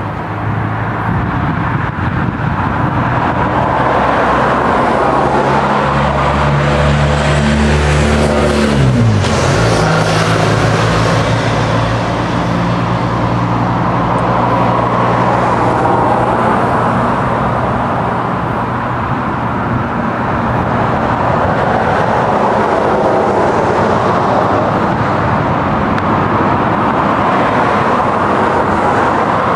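A motor vehicle's engine passing close by; its hum drops sharply in pitch about nine seconds in, over a steady rush of road noise.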